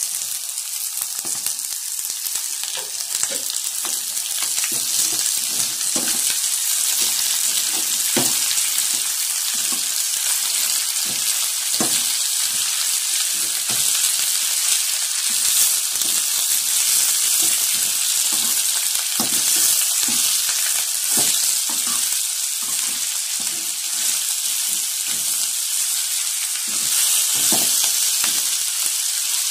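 Country chicken pieces sizzling steadily in hot oil in an aluminium kadai with shallots and dried red chillies, while a steel ladle stirs them, scraping and knocking against the pan over and over.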